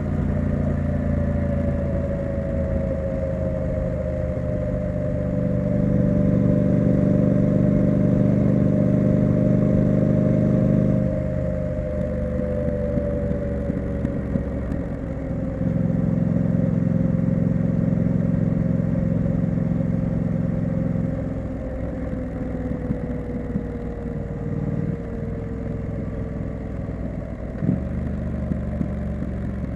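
Triumph Street Scrambler's 900 cc parallel-twin engine and exhaust while riding. It holds a fairly steady pitch, gets louder twice as the throttle opens, and eases off in between.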